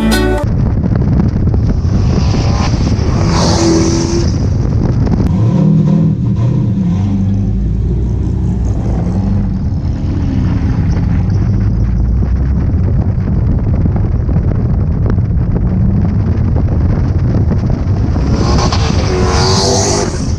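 Turbocharged LS-swapped 5.3 L V8 in a Mustang running loudly. A hissing rush comes through about three seconds in and again near the end.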